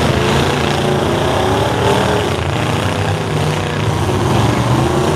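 Engines of stock demolition-derby trucks running and revving as the trucks manoeuvre, the pitch rising and falling.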